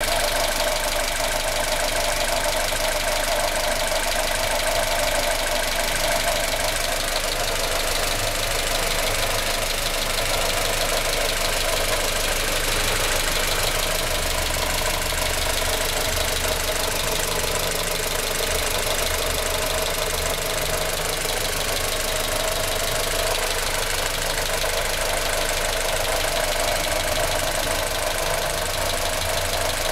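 Honda Civic D16Y4 1.6-litre four-cylinder engine running steadily, with a persistent rattling, clunking noise from the top right-hand corner of the engine that the owner cannot place.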